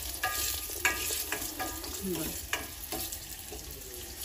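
Tempering of mustard seeds, cumin, dried red chillies, curry leaves and garlic sizzling in hot oil in a stainless steel kadai. A steel spoon stirs it, clicking against the pan now and then.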